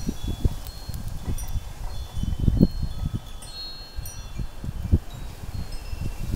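Wind chimes ringing irregularly in gusty wind, a scatter of short high tones, with wind buffeting the microphone as a low rumble that swells in gusts.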